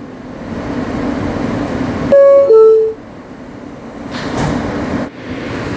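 R160 subway car's two-note descending door-closing chime about two seconds in, over the car's steady interior hum. The hum drops briefly after the chime and then builds again.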